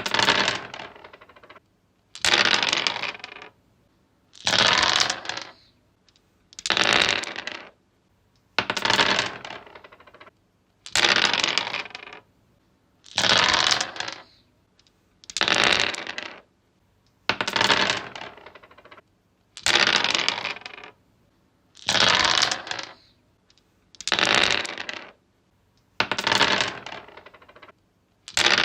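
Dice rolled on a wooden surface, over and over: each roll is a clatter of about a second that dies away as the dice settle, repeating about every two seconds, some thirteen rolls in all.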